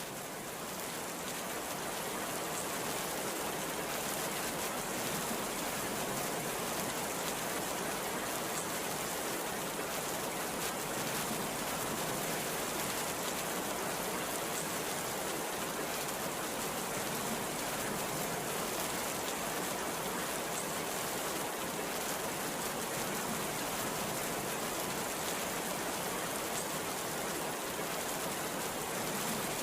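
Heavy rain falling in a steady, dense downpour, fading in over the first couple of seconds.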